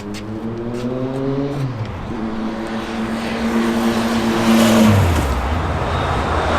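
A car engine pulling away, its pitch rising until a drop like a gear change about two seconds in. It then holds a steady pitch and falls away again about five seconds in.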